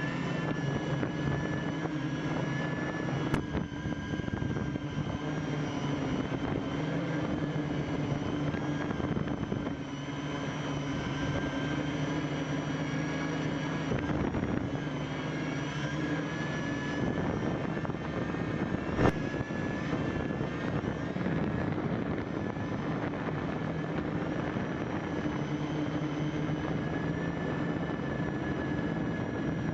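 Home-made quadcopter's electric motors and propellers running steadily in flight, a whine whose pitch wavers slightly, heard from the camera strapped beneath it. Two brief clicks sound, one a few seconds in and one about two-thirds of the way through.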